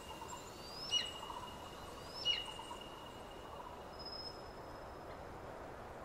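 Bird calls: two rising whistles, each ending in a sharp drop, about a second and a half apart, over a faint steady high tone, then a thin high whistle held for a couple of seconds.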